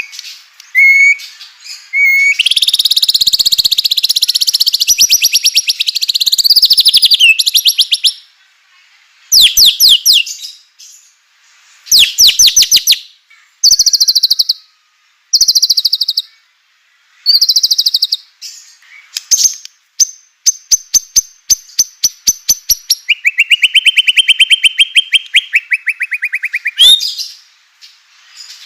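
White-rumped shama singing loudly in varied phrases: fast clicking rattles, whistled notes, and a long harsh buzzing rattle about two-thirds of the way through, with short pauses between phrases.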